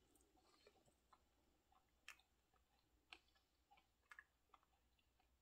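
Near silence with faint chewing: soft mouth clicks and small crunches, a few spaced about a second apart, as a man eats a bite of cornmeal pie.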